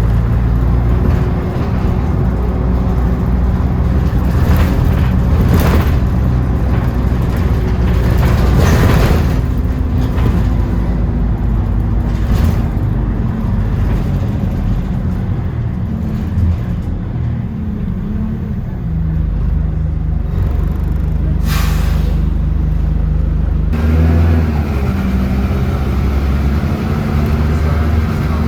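City bus running, heard on board, with its engine humming steadily. Several short hisses of compressed air from the air brakes come through, and the engine note changes about three-quarters of the way through.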